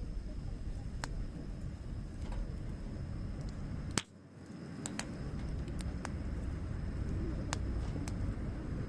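Wood fire crackling: sharp pops and snaps every second or so over a steady low rumble. The loudest pop comes about four seconds in, and the rumble briefly drops away after it.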